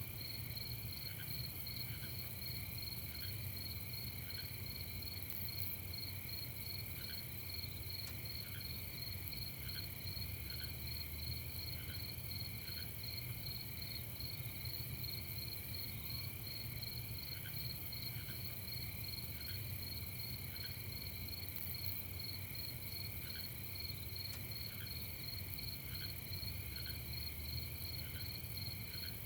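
Crickets and other night insects trilling steadily at several pitches. A short, lower chirp repeats about every half second in spells, over a faint low rumble.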